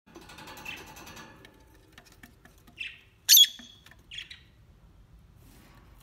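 A bird's squawking calls: a rapid chattering burst in the first second, then three short harsh squawks about three seconds in, the middle one the loudest and sharpest.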